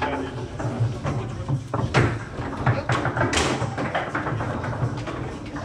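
Table football in play: a run of irregular sharp knocks and clacks as the ball is struck by the player figures and bounces off the table, over background music.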